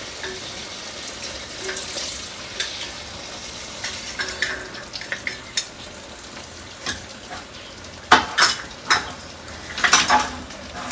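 Ground beef, onions and peppers sizzling steadily in a pot as beef broth is poured in slowly. Utensils clink against the pot three times in quick succession near the end, then twice more.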